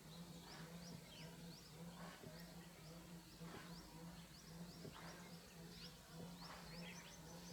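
Faint birds chirping: many short, quick calls, several a second, over a low steady hum.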